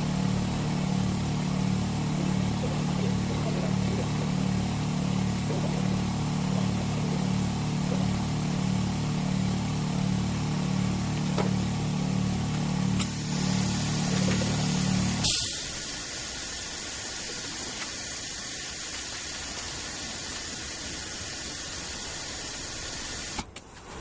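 Oil-flushing machine's pump running with a steady, evenly pulsing low hum while it pushes cleaning oil through the engine. About thirteen seconds in a hiss joins it, and about two seconds later both cut off at once with a click, leaving a faint steady hum.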